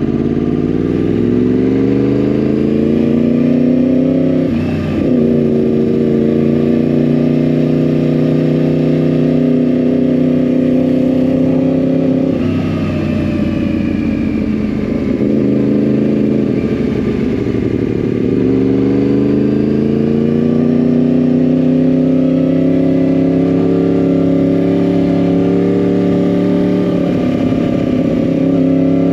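2010 Yamaha R1's crossplane inline-four running through a Yoshimura exhaust while riding, the engine note climbing with the revs and dropping sharply at gear changes, about three times.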